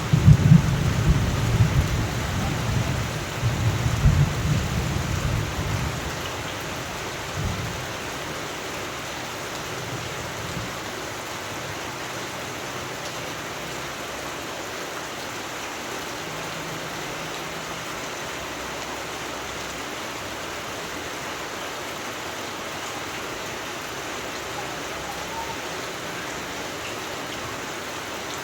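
Steady rain falling, with a roll of thunder rumbling low and dying away over the first six seconds or so.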